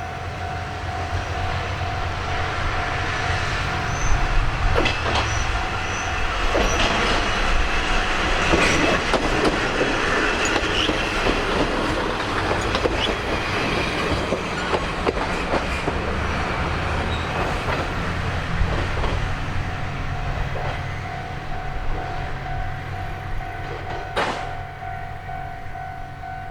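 Diesel railcar running past: low engine rumble with wheels clicking over the rail joints and some squeal, densest and loudest through the middle. A steady high tone sounds underneath at the start and end, and there is one sharp click near the end.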